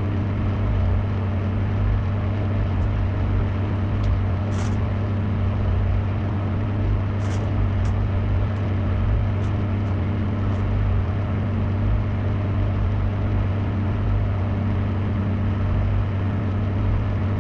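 Microwave oven running with hair wax heating inside: a steady low hum with fan noise, and a few short crackles about four and seven seconds in.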